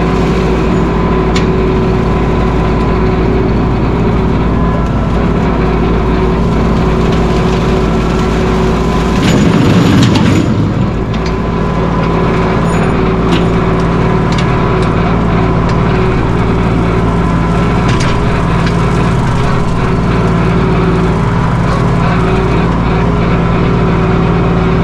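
Mahindra 1626 sub-compact tractor's three-cylinder diesel engine running steadily and loud, with a brief louder, rougher stretch about ten seconds in.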